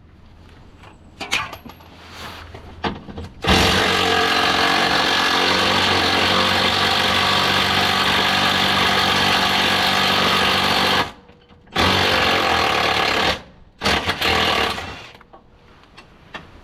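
Impact wrench hammering in three bursts: a long run of about seven seconds, then two short ones, as it works a bolt on the car. Light clicks and knocks from handling the tool come before it.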